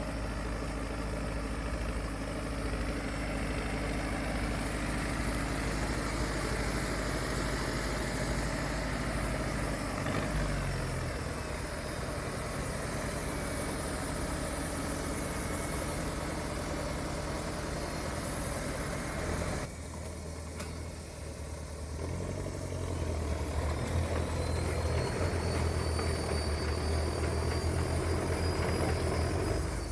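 Heavy diesel engines of a log truck and tracked bulldozer running steadily, with the sound changing abruptly about ten and twenty seconds in. A faint rising whine comes in during the last several seconds.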